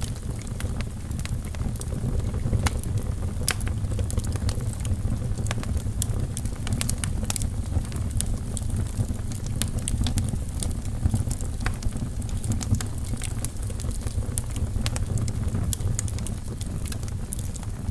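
Wood fire burning in a fireplace: a steady low rumble of flames with frequent sharp crackles and pops from the burning logs, scattered irregularly throughout.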